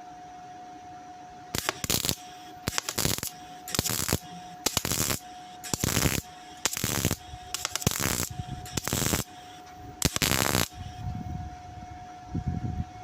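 Welder laying a run of nine short stitch welds on the sheet-steel wing panel of a Ford Cortina, each a crackling burst of about half a second, roughly one a second, stopping about eleven seconds in. The welds pop, which the welder puts down to flammable material left on the back of the panel.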